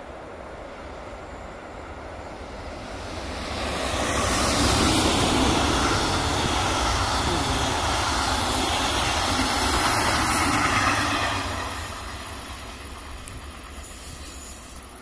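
Electric DB regional train with red double-deck coaches passing on the tracks: its running noise swells as it approaches, stays loud for about seven seconds as the coaches go by, then fades away near the end.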